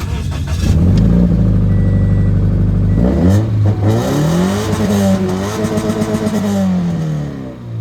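Car engine revved in place through its exhaust: it runs steadily at first, climbs in pitch about three seconds in, holds high for a couple of seconds, then drops back toward idle near the end.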